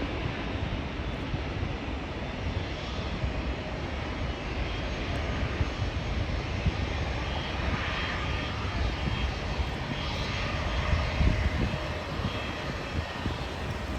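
Jet airliner engines heard as a steady rushing noise with a faint whine, swelling slightly near the end as the aircraft passes.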